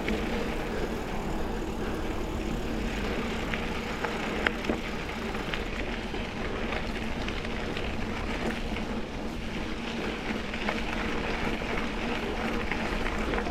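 Mountain bike riding along a dirt double-track trail: tyres rolling over the ground with a steady noise, and the bike rattling with scattered sharp clicks.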